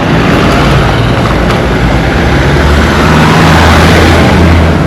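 A vehicle's engine running steadily as it travels, with a low hum under loud road noise that grows slightly louder about three seconds in.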